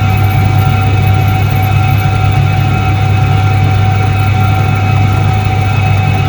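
Soviet Iset-3 washing machine running with a steady, unchanging low hum and a steady higher whine above it.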